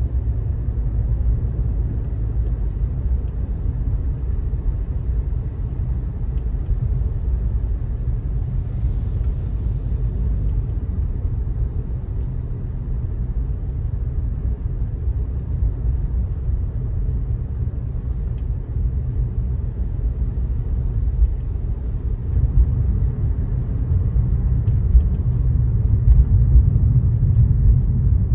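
Car driving at steady speed: a continuous low rumble of road and tyre noise, with a few faint ticks in the last third.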